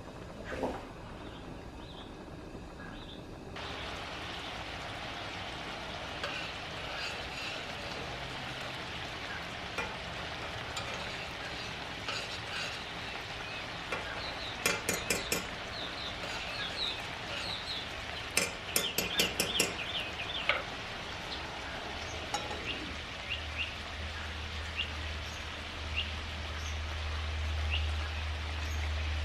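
Sliced sausage frying in a cast-iron skillet: a steady sizzle that starts a few seconds in, with two short bursts of a metal utensil clinking and scraping in the pan about halfway through. A low hum comes in near the end.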